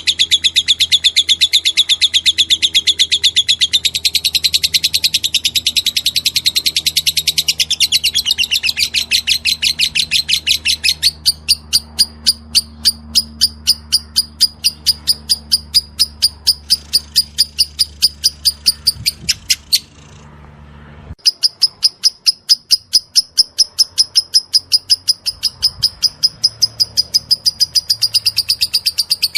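Lovebird singing its long 'ngekek' chatter: a fast, unbroken string of shrill, high-pitched notes. It pauses for about a second a little past two-thirds of the way through, then carries on at the same pace.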